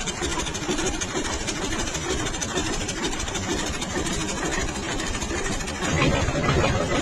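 Fiat tractor's diesel engine running steadily at a low speed, getting louder and heavier about six seconds in.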